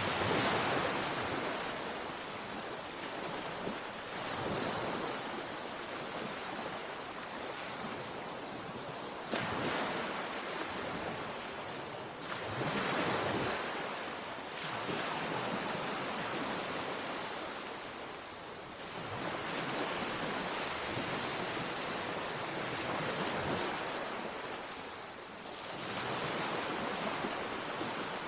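Sea waves breaking and washing on a shore, a steady rush of surf that swells with each wave every few seconds.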